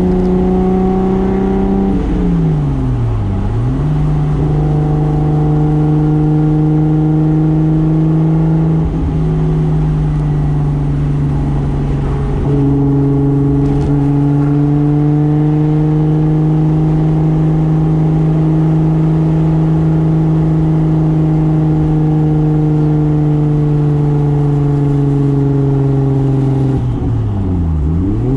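Turbocharged 2JZ inline-six of a 1995 Toyota Soarer running under way at a fairly steady engine speed. Its pitch drops and climbs back twice, once about two seconds in and again near the end.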